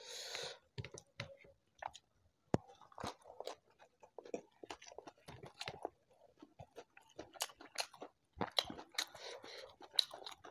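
Close-up mouth sounds of a person eating rice and shrimp balado by hand: a steady run of wet chewing clicks and lip smacks, with a short breathy hiss at the very start.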